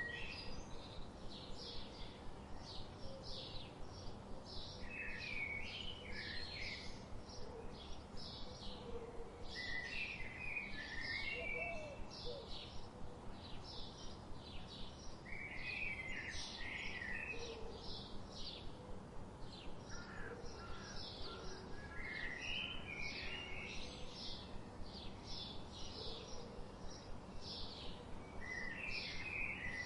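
Birds chirping: a short warbled song phrase repeats about every five or six seconds over a steady, fast series of high chirps, about three a second.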